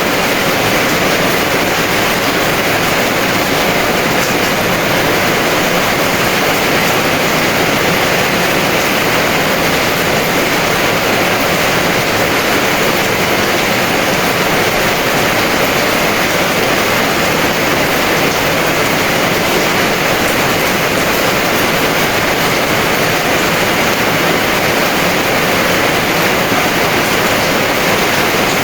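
Heavy rain falling, a steady dense hiss with no separate drops or thunder standing out.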